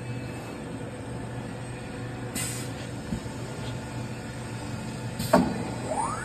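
CNC nesting machine running with a steady hum. Two short hisses come at about two and a half and five seconds in, with a sharp clunk right after the second, and a rising whine starts near the end.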